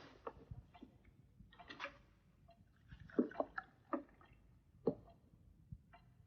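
A few faint, irregular clicks and light knocks in a quiet room, the loudest around three to five seconds in.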